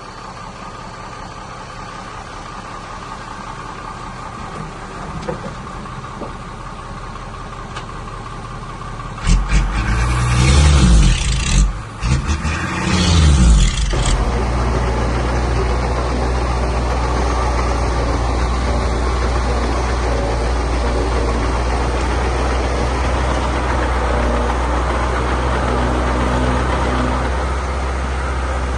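Heavy diesel engine of earthmoving equipment running, revved hard about nine seconds in with its pitch rising and falling for a few seconds, then running steadily and louder.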